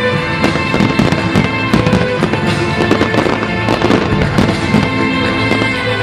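Fireworks going off in rapid, irregular succession, many bangs and crackles a second, over music with long held notes.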